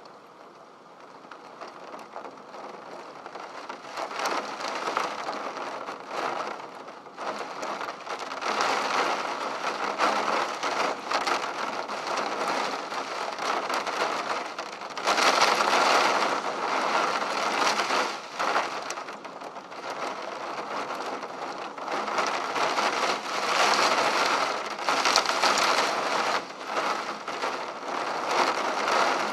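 Heavy rain beating against a window pane. It builds over the first few seconds, then comes in louder and softer waves as the downpour gusts.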